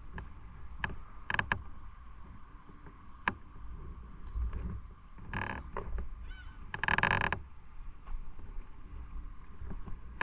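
Several short honking bird calls, the longest and loudest about seven seconds in, over a low wind rumble.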